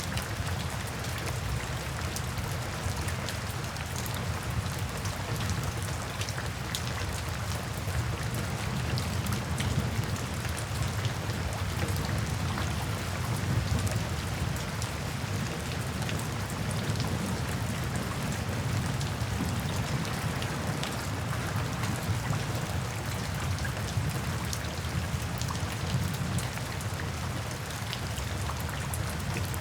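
Steady rain falling, a constant hiss with many individual drops ticking through it.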